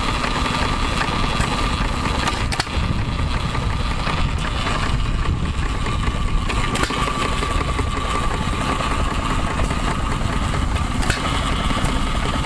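Antique hit-and-miss gasoline engine running, coasting down for several seconds between single firing strokes, about one every four seconds, over the steady rumble of other running engines. A steady high whine runs under it.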